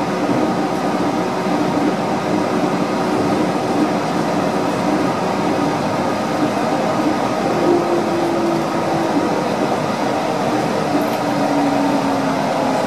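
Yurikamome rubber-tyred automated guideway train running, heard from inside the car: steady running noise with a motor whine. From about ten seconds in, the whine falls in pitch as the train slows into a station.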